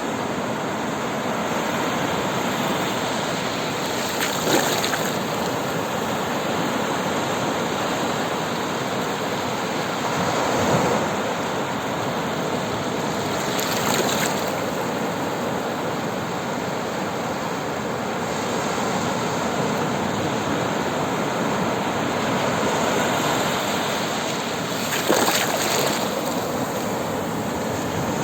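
Sea water washing and lapping steadily, with a few brief louder splashes.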